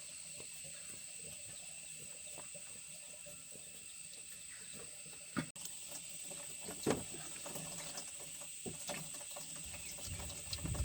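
Steady running water, with a thin high whine over it, a sharp knock about five and a half seconds in and a lighter one near seven seconds.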